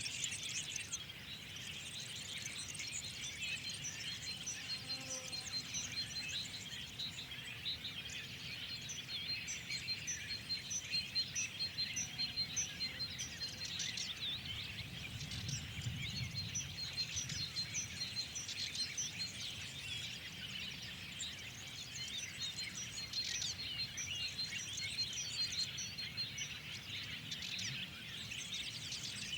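Many small birds chirping and singing at once, a dense spring chorus with runs of quick, evenly repeated high notes woven through it, over a low steady background rumble.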